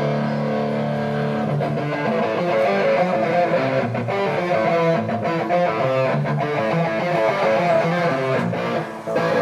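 Electric guitar strumming held chords that change every second or so, played live by a hardcore band.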